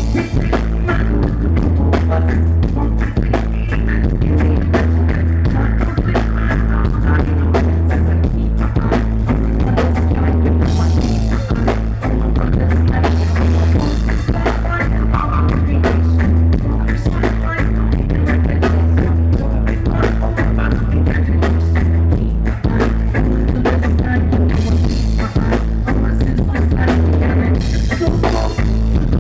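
A live rock band playing, with a heavy bass line repeating about every two seconds under steady drums and guitar.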